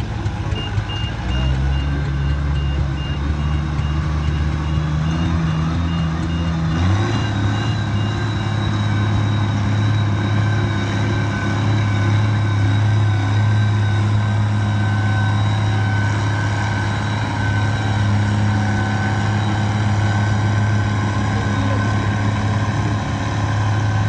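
A heavy pulling engine idles, then revs up sharply about seven seconds in and holds a steady high speed under load. A reversing alarm beeps about two or three times a second for the first eight seconds.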